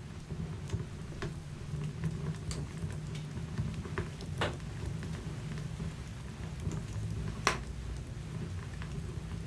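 Wood fire burning in a fireplace: a steady low rumble of the flames with scattered sharp crackles and pops from the logs, the loudest pop about seven and a half seconds in.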